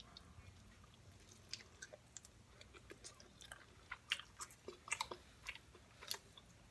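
A person chewing food close to the microphone: a string of soft, irregular wet clicks and smacks.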